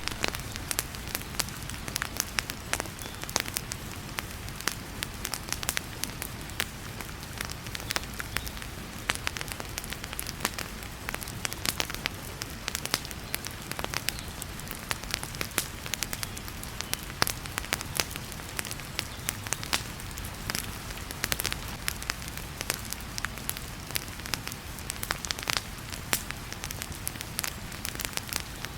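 Wood fire crackling and popping in a fireplace, with frequent sharp irregular snaps over a steady hiss of heavy rain.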